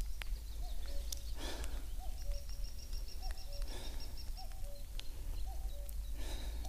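A bird repeating a short low two-note call, a higher note then a lower one, about once a second. A second bird gives a fast high trill in the middle, over a low steady rumble of wind.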